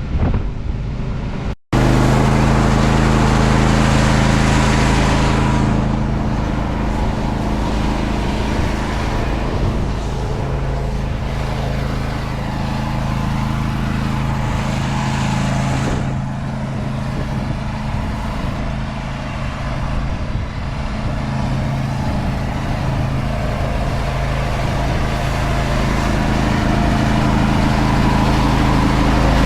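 Large diesel harvest machine, a combine or tractor, running steadily under load, with a steady low engine hum and machine noise. The sound cuts out for an instant near the start.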